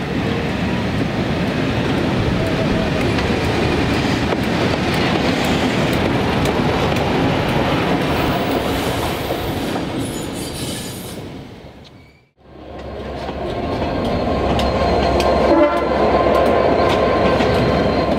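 Diesel locomotive and coaches running through a station, with engine and wheels on rail, fading out about two-thirds of the way in. After a brief silence, a second train runs through a station with the same steady rumble of wheels on track.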